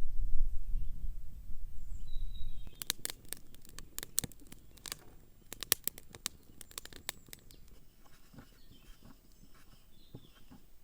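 A low rumble for the first couple of seconds, then a run of sharp, irregular clicks and taps lasting about five seconds, with faint bird chirps.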